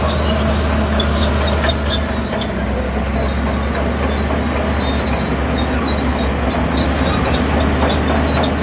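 Bulldozer's diesel engine running steadily under work, with scattered high metallic squeaks and clicks from the machine.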